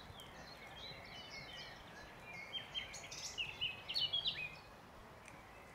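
A small songbird singing a quick run of short, high chirps and whistles, busiest about halfway through, over faint outdoor background noise.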